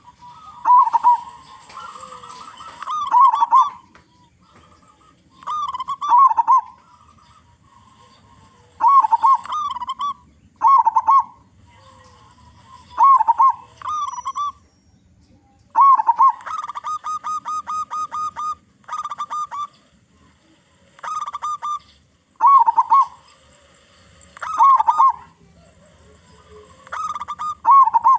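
Local-breed zebra dove (perkutut) cooing, giving loud phrases of rolling coos every few seconds, with a quick even run of about a dozen notes near the middle.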